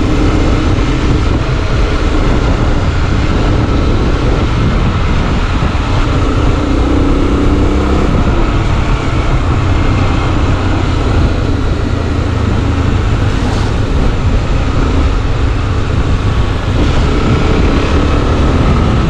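Honda XRE 300 single-cylinder motorcycle engine running on the move, a loud steady rumble with its note shifting slightly as it rides.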